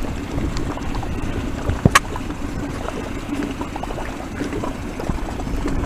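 Water lapping and splashing against a small boat's hull, over a steady low hum, with a sharp knock about two seconds in.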